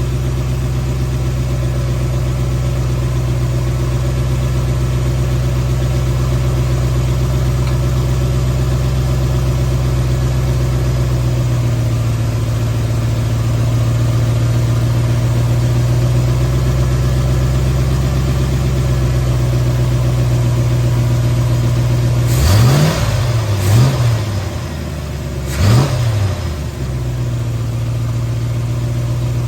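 Ford 351 Windsor small-block V8 idling steadily during its initial tune-up. About 22 seconds in the throttle is blipped three times in quick succession, each rev rising and falling back, before it settles to idle again.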